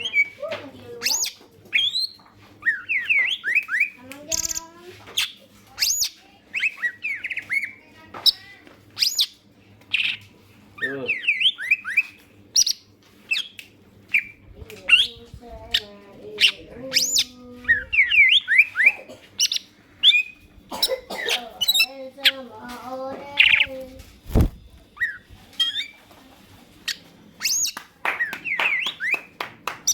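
Green leafbird (cucak ijo) singing vigorously: a long, varied run of short, sharp whistled notes that sweep up and down in quick succession, broken by lower warbling phrases.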